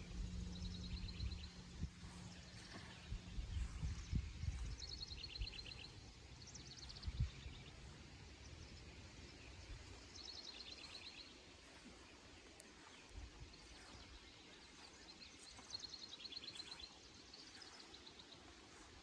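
Songbirds singing faintly, a series of short, fast trills of rapidly repeated high notes, several phrases at slightly different pitches. There is low rumbling and a few thumps in the first half, which fade out after about eight seconds.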